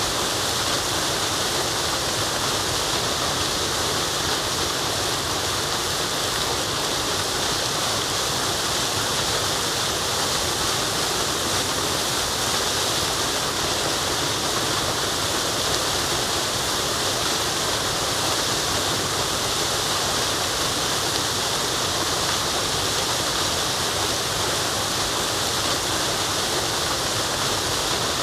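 Waterfall rushing, a steady, unchanging hiss of falling water.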